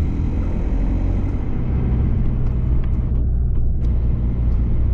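Citroën camper van driving along, heard from inside the cab: a steady low engine rumble with road noise.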